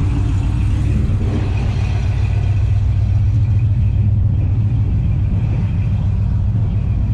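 A car engine idling steadily with a deep, even rumble.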